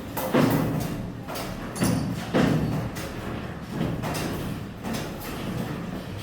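Irregular heavy knocks of metalwork on iron wire, about five in a few seconds, each ringing on briefly over a steady workshop background.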